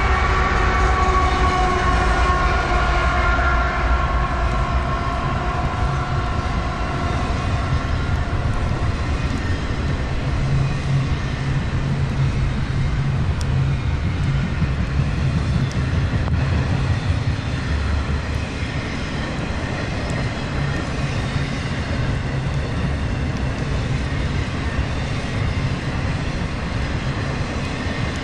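Freight train passing: the locomotive's horn sounds a chord for the first several seconds, sliding slightly lower in pitch as it fades, then a steady low rumble of container cars rolling by on the rails.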